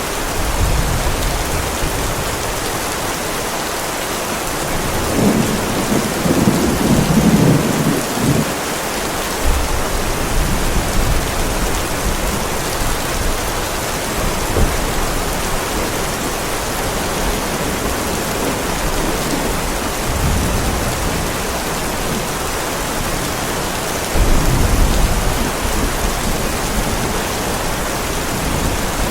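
Heavy rain pouring steadily onto a driveway, with low rolls of thunder: a long rumble about five seconds in and another near the end.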